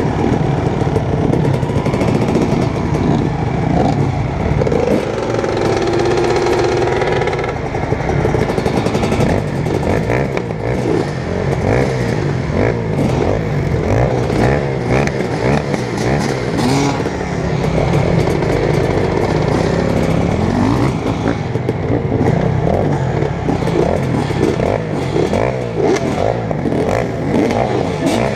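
Dirt bike engines running hard, their pitch rising and falling again and again as they rev and shift, with frequent clattering knocks throughout.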